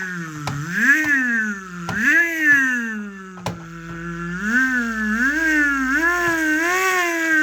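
A child's voice imitating a race-car engine starting and revving, a continuous hummed "vroom" that rises and falls in pitch over and over. A few sharp clicks from the toy being handled come through it.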